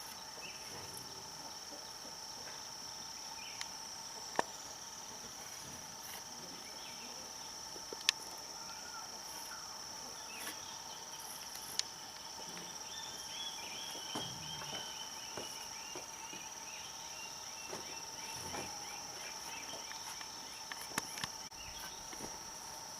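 Insects trilling steadily, with a few sharp knocks and, about halfway through, a short falling run of chirps.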